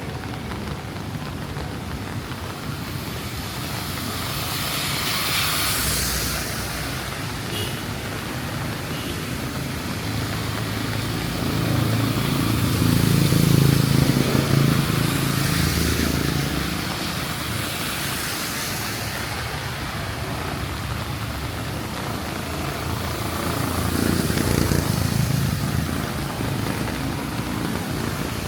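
Vehicles passing one after another on a rain-soaked street, their tyres hissing on the wet road and their engines humming, over a steady wash of rain. The loudest pass, about halfway through, carries a deep engine drone.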